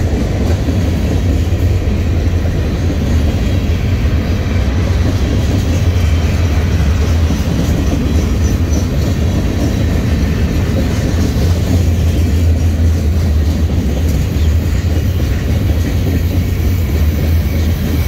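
Freight train gondola cars rolling past at close range: a steady, heavy low rumble of wheels on the rails.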